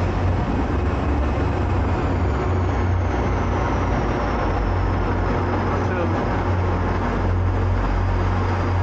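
Steady low rumble and hum of an Amtrak passenger train standing at an underground station platform, with a faint high whine that slowly falls in pitch a couple of seconds in.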